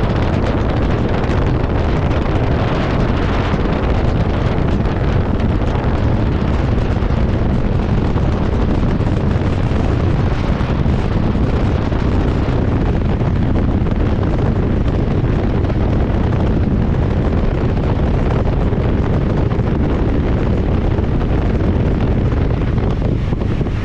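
Wind rushing over the microphone of an open-top MG Midget sports car on the move, with the car's engine and road noise underneath, steady throughout.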